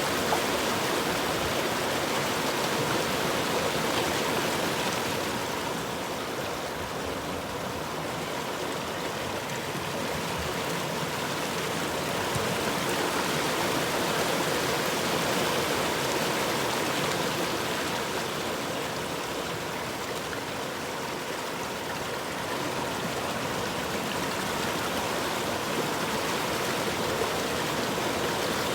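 River water flowing and rushing steadily, swelling and easing gently in loudness every several seconds.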